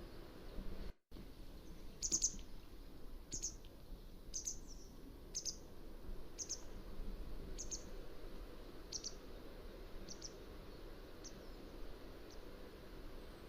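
Mountain wagtail calling: a series of short, high, sharp notes about one a second, growing fainter toward the end. The audio drops out briefly about a second in.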